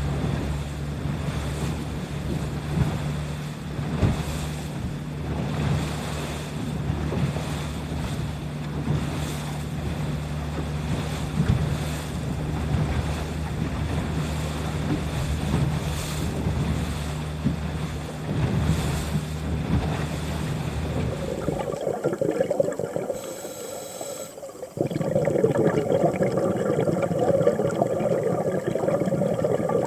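A boat's motor running steadily, with wind buffeting the microphone and the wash of waves. About 22 s in the engine sound stops and a louder sound of rushing water takes over.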